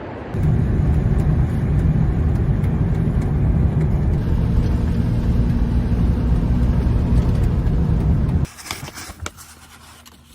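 Steady low rumble of a vehicle on the road, engine and road noise, which starts abruptly just after the start and cuts off suddenly near the end, leaving a few faint clicks.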